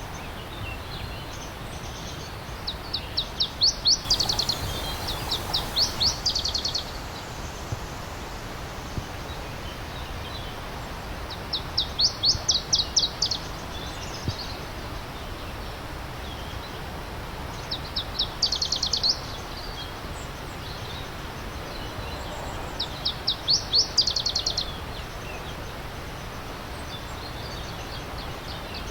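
A songbird repeating a quick trilled phrase of high, evenly spaced notes that grows louder toward its end, about every five or six seconds, over the steady rush of a stream.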